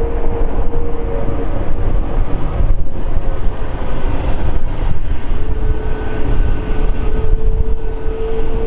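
Jet airliner engines running loudly, with a steady whine over a deep rumble; the whine fades out for a few seconds in the middle and then comes back.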